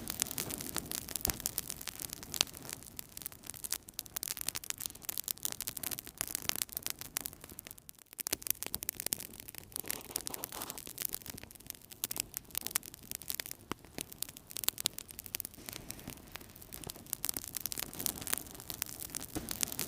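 Wood fire burning in a fireplace: dense, irregular crackling and popping over a soft rush of flames.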